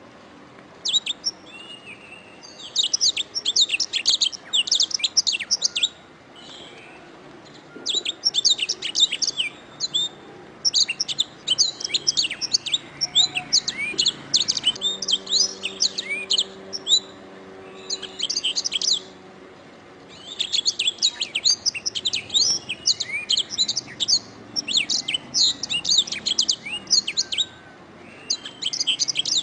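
Domestic canary singing in long phrases of rapid, repeated high chirping notes, broken by short pauses of about a second, in a continuous song.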